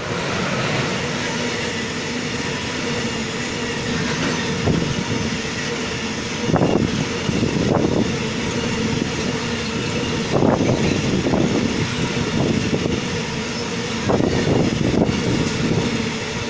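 Freight train of tank wagons hauled by an HSL Class 187 locomotive passing close by: a loud steady rumble of wheels on rail, with clacks of the wheelsets in clusters from about six seconds in.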